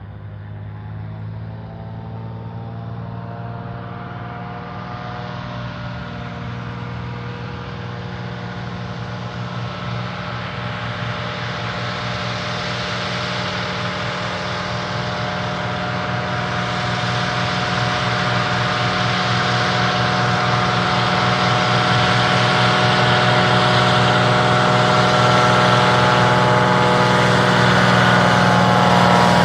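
A floatplane's piston engine and propeller running steadily and growing louder throughout as the aircraft draws closer.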